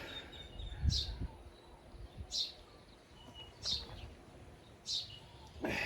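A bird chirping over and over, one short high descending chirp about every second and a quarter, with a few low rumbles underneath.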